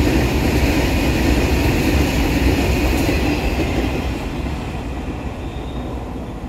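Freight train's open wagons rolling past on the rails with a steady rumble. It fades from about halfway through as the tail of the train passes and draws away.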